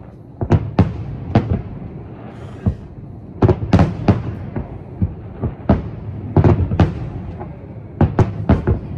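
Aerial firework shells bursting in quick volleys: clusters of sharp bangs about half a second in, around three and a half seconds, around six and a half seconds and near the end.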